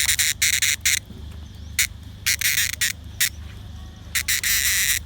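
A cicada buzzing loudly close to the microphone. The buzz is continuous for about a second, then comes in short, broken bursts with gaps between them. The sound comes from the organs at the back of its body, not from the wings.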